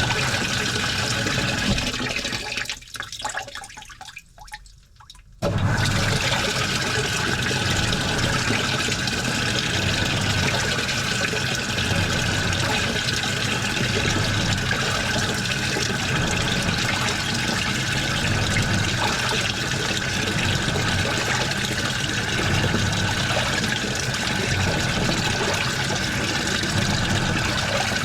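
Washing machine running with water rushing and sloshing in the drum. The sound dies away about two to three seconds in, then cuts back in suddenly about two seconds later and carries on steadily.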